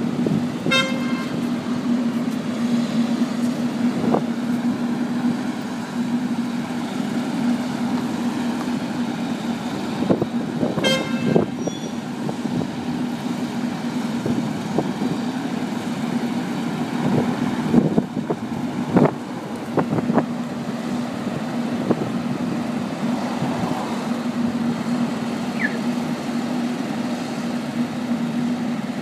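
Road traffic: a steady engine hum with two short car-horn toots, one about a second in and one about eleven seconds in, and a few sharp knocks later on.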